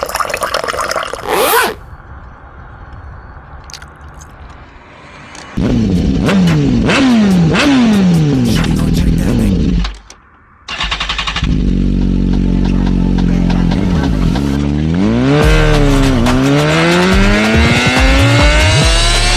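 BMW S1000RR inline-four motorcycle engine. Its pitch falls off several times in quick succession, then after a brief break it pulls hard, the pitch rising steadily as the bike accelerates.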